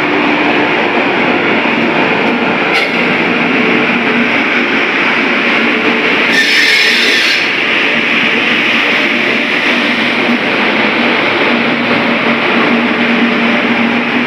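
Rajdhani Express passenger train arriving behind an electric locomotive, its coaches rolling past along the platform with a steady, loud noise of wheels on rail. A single click comes about three seconds in, and a brief high hiss follows about six seconds in.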